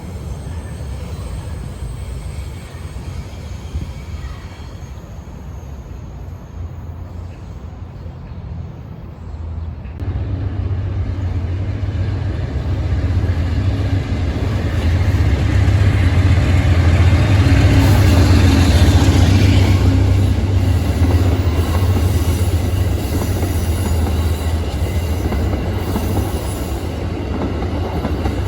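A train approaching and passing: a low rumble that grows louder about ten seconds in, with the noise of wheels on rail swelling to a peak past the halfway mark, then easing slightly.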